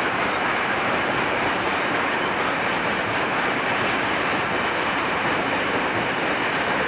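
Freight train of hopper wagons rolling past: a steady, even rolling noise of wheels on rail with no distinct clicks or changes.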